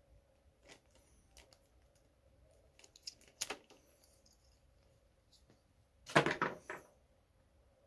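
Scattered clicks and light knocks from the space heater and its packaging being handled, with a short cluster a little after three seconds and the loudest run of knocks and rattles about six seconds in.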